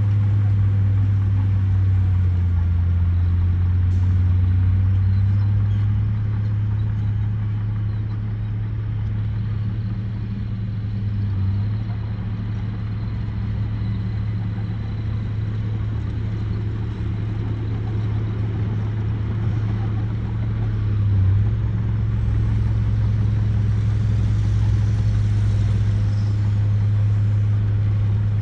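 Large dump truck's diesel engine running with a steady low drone.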